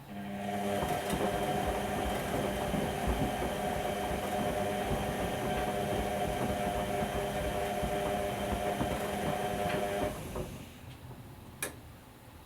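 Whirlpool washing machine running during a wash: a steady motor hum with rough churning underneath, cutting off about ten seconds in. A single sharp click follows near the end.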